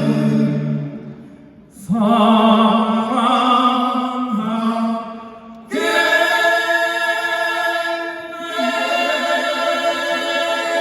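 Male vocal quartet singing in close harmony, three long held phrases with brief breaths between them about 1.5 and 5.5 seconds in.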